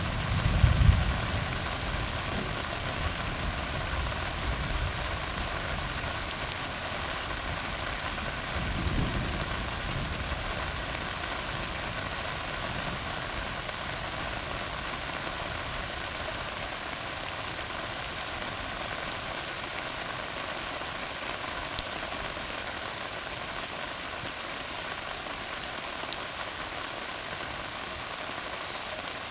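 Steady rain falling on a tar road, an even hiss with a few sharper single drop hits. A low rumble sounds at the start and again about nine seconds in.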